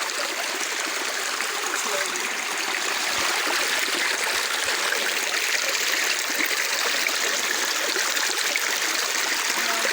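A stream of running water flowing in a steady, even rush.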